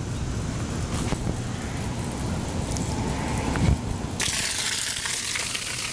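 Low rumble, then about four seconds in a sump pump's discharge bursts out of a cut-off pipe: a sudden, steady rush of spewing water.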